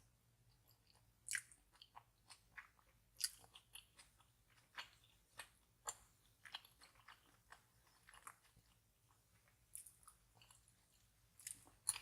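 A person chewing food close to the microphone: faint, wet mouth clicks at an uneven pace, one to three a second.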